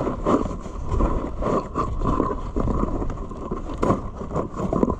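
Strong wind buffeting the microphone as an uneven low rumble, with scattered clicks and metallic knocks from a fence panel and clip being handled; one louder knock near the end.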